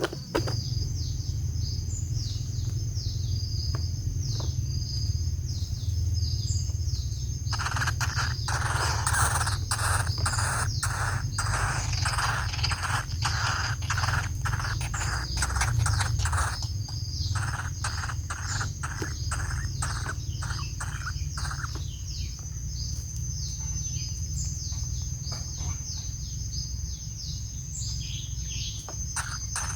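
Birds calling at a woodpecker nest: short high chirps repeat throughout, and from about 7 to 21 seconds in a run of harsh, rhythmic notes comes about two a second. Under them are a steady high insect drone and a low steady rumble.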